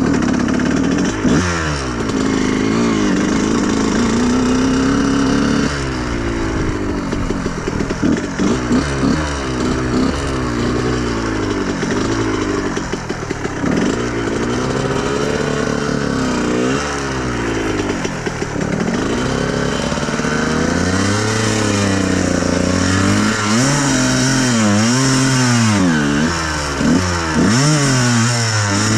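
Honda CR125R's two-stroke single-cylinder engine revving up and down over and over as the dirt bike is ridden along a trail, with the throttle opening and closing every second or two.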